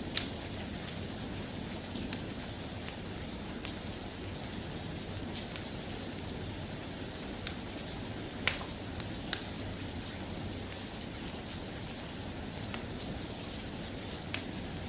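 Soft, steady rain with a few sharp clicks of single drops.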